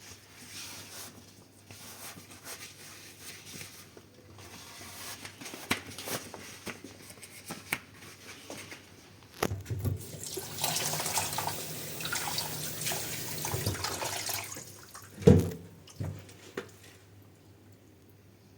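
Dishes being washed at a kitchen sink: scattered clinks and knocks of dishware, then the tap runs for about five seconds, followed by one sharp knock, the loudest sound.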